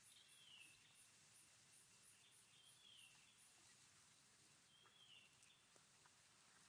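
Faint outdoor background: a bird repeating a short falling call every two seconds or so. Over it runs a high, even chirping, about two to three beats a second, that stops a little after halfway through.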